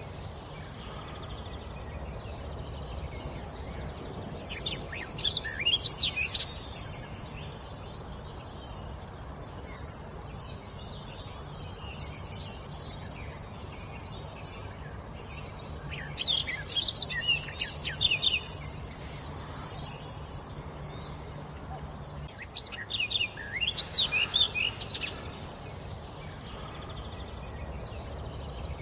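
A songbird singing three short phrases of quick, sliding high notes, each about two seconds long and several seconds apart, over a steady low background hum.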